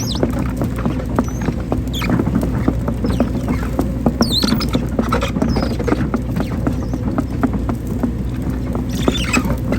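Hydraulic excavator running steadily while digging, with frequent clicks and rattles and a few brief high squeaks over the engine.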